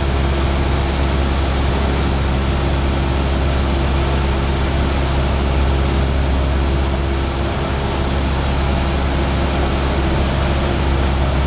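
Cessna 172R's four-cylinder Lycoming IO-360 engine and propeller droning steadily in flight, heard inside the cabin.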